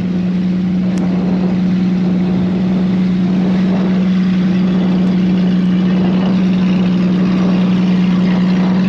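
Jeep engine idling, a constant steady drone.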